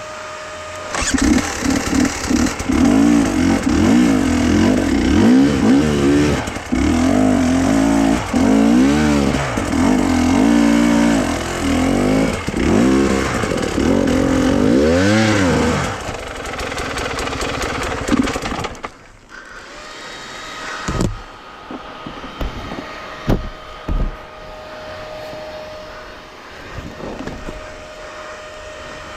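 An engine revving up and down over and over, which cuts out about two-thirds of the way through. A quieter steady hum with a few knocks follows.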